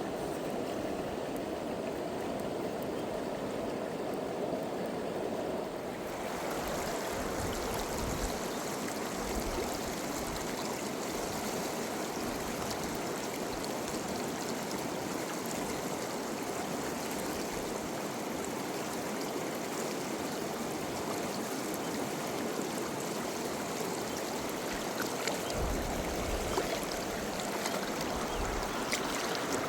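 River water flowing with a steady rushing sound, growing fuller and hissier about six seconds in.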